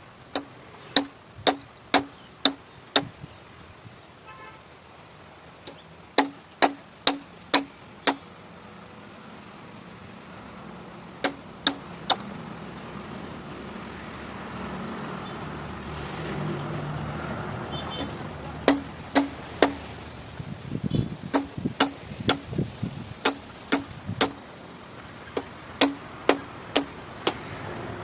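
Repeated sharp strikes, about two a second in runs of three to eight, each with a short low ringing tone, like a tool chopping or hammering. Under them runs a steady background rumble that swells and hums in the middle.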